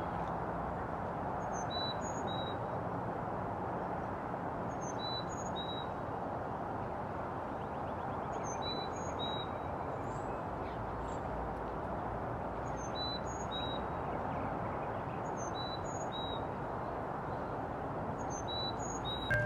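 A bird repeating a short, high two-note call about every three seconds over a steady rumble from a freight train rolling away.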